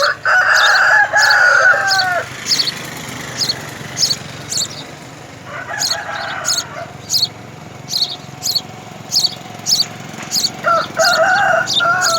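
Birds calling: three long, drawn-out calls, the first about two seconds long, over short high chirps repeated about twice a second.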